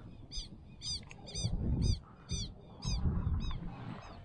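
A bird calling over and over: about nine short, sharp, high-pitched calls, each a quick slurred note, two to three a second, stopping shortly before the end. Low rumbling underneath, loudest in the middle.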